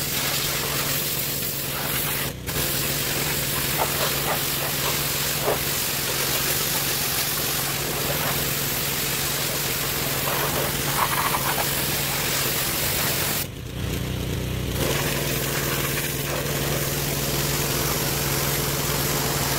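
Pressure washer running: its small engine hums steadily under the loud hiss of the high-pressure water spray. The spray cuts out briefly about two seconds in and again for about a second near the end, while the engine keeps running.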